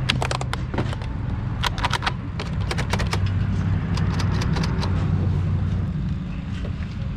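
Quick clusters of sharp plastic clicks and clacks as video game cases are picked up and handled, over a steady low rumble.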